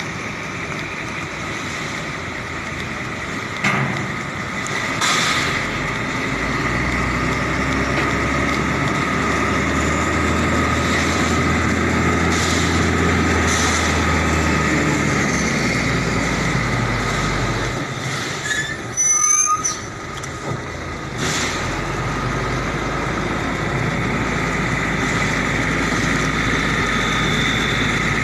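Container trailer truck running, with a low engine drone that shifts in pitch several times and a steady high squeal over it. There are a few sharp knocks, and a brief burst of wavering high squeaks about two-thirds of the way through.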